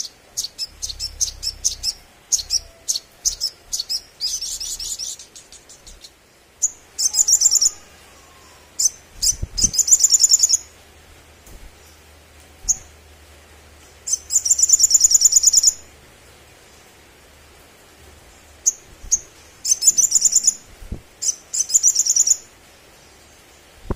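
Sunbird song: a run of sharp, high chips, then several bursts of fast, very high trills, each about a second long, with short pauses between them.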